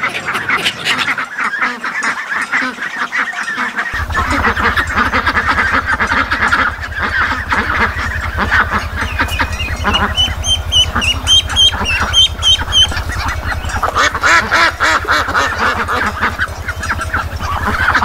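A flock of ducks quacking, many calls overlapping. From about ten seconds in, ducklings join with short, high, repeated peeps for a few seconds. A steady low hum runs underneath from about four seconds in.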